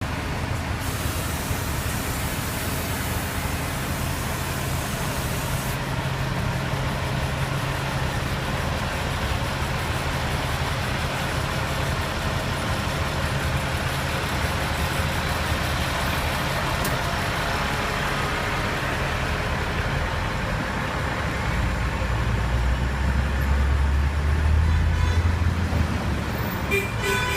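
A heavy motor vehicle's engine runs with a steady low drone over street traffic noise, growing louder about three-quarters of the way through.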